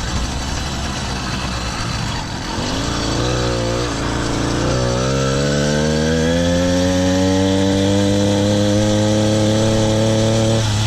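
Motorized bicycle's small engine pulling away under throttle, its pitch climbing steadily for several seconds as the bike gathers speed, with a short dip near the end. Before the engine note rises there is mostly road and wind rumble.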